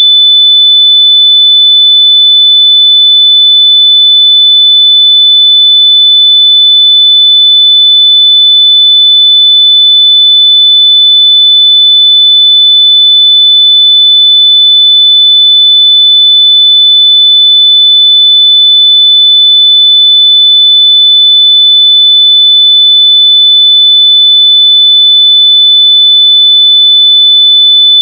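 A single continuous electronic tone at one high pitch, very loud and perfectly steady with no breaks. It is a locator tone played through wireless earbuds so they can be found by ear.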